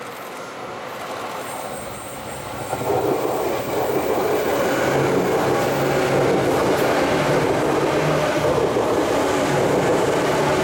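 Izu Kyuko 2100 series 'Kurofune' electric multiple unit passing close by. Its running noise builds as it approaches, then becomes loud and steady from about three seconds in as the cars rush past.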